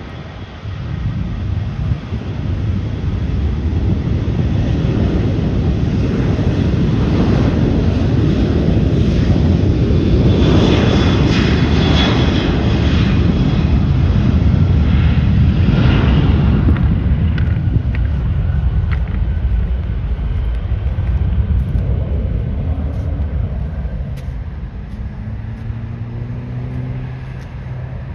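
Boeing 737 airliner's jet engines going by at close range: a loud rush that builds over the first few seconds, peaks with a high whine around the middle, then fades away.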